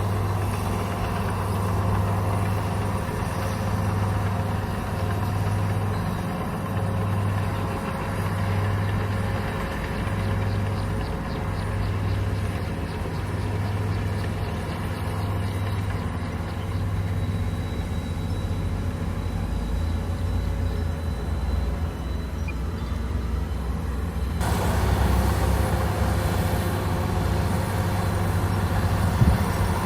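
Komatsu bulldozer's diesel engine running steadily, its low hum swelling and fading about once a second. Well over halfway through, the sound changes abruptly and gets louder.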